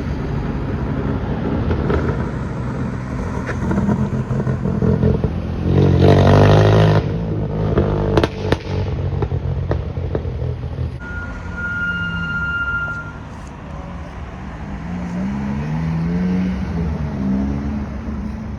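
Car engines running and revving as modified cars drive past, with the loudest rev about six seconds in. A short high steady tone sounds about twelve seconds in, and near the end an engine's pitch rises and falls with light revs.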